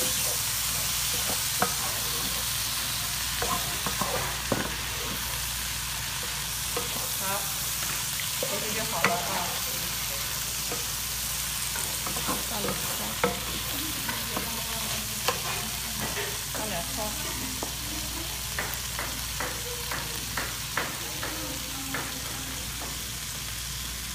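Stir-fry sizzling in an electric skillet while a wooden spatula stirs and scrapes through it: a steady hiss with scattered clicks and knocks of the spatula against the pan.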